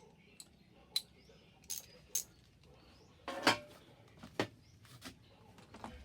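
Scattered metallic clinks and clanks of hand tools and metal fittings being handled while securing a truck battery, with a louder clank about three and a half seconds in.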